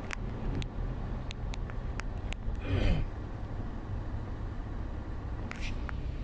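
Car driving on the road, heard from inside: a steady low rumble of engine and tyres, with scattered small clicks, a short falling sound about three seconds in and a brief hiss near the end.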